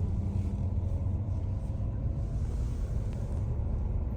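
Steady low rumble of a car being driven, with a faint steady engine hum over it.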